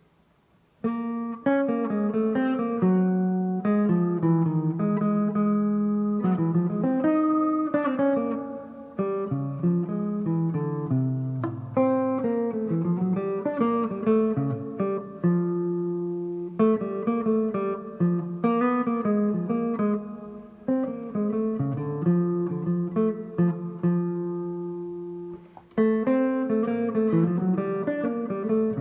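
Guitar playing a bebop line and chord changes at a moderate tempo, starting about a second in after a short silence.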